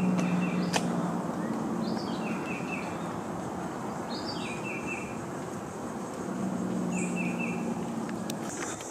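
A bird singing the same short phrase three times, about every three seconds: a quick falling note followed by three short even notes, over a steady hiss of forest background.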